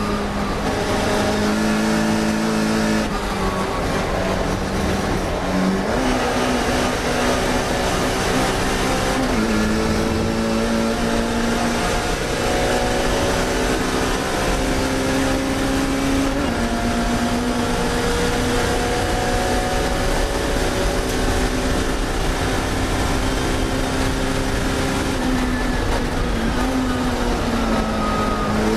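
Classic Mini race car's four-cylinder engine running hard under load. The revs climb slowly, then the pitch drops sharply at gear changes several times.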